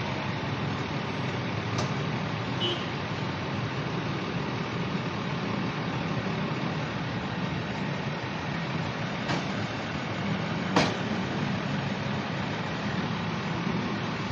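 Road traffic noise from vehicle engines, heavy trucks among them, running and idling in slow traffic. A few sharp clicks cut through, the loudest a knock about eleven seconds in.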